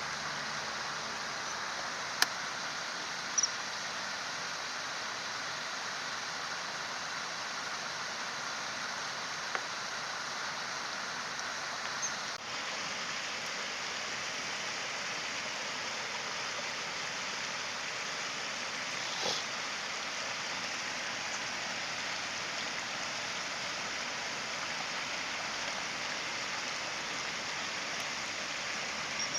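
Steady rush of flowing stream water, with a sharp click a couple of seconds in and a few brief high-pitched notes scattered through it.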